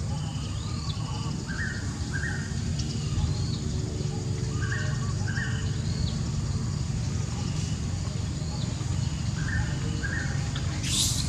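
Birds calling repeatedly over a steady low background rumble. A pair of short notes comes about every three seconds, with thinner, higher calls in between.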